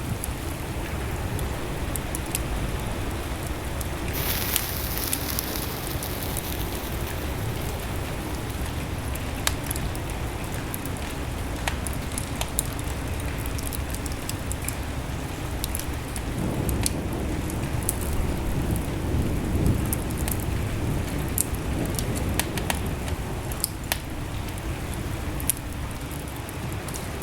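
Wood fire burning in a fireplace: a steady low rumble of flames with frequent sharp crackles and pops at irregular intervals, and a brief hiss about four seconds in.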